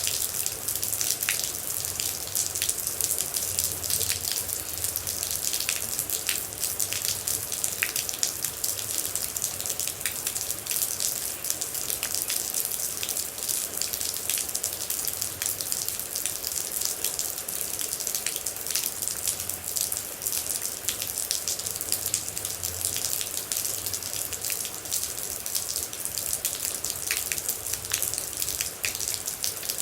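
Steady rain with many water droplets dripping and pattering through a constant hiss.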